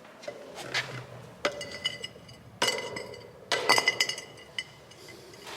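Hard objects clinking and knocking together as they are handled, three sharper knocks each ringing on briefly, with small scrapes and clicks between.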